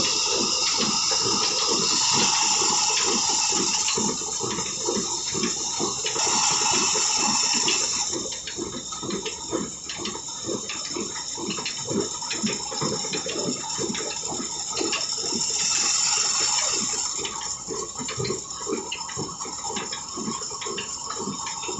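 Old black diesel engine running with a regular, even beat, under a steady rush of water that swells louder in the first part and again briefly later on.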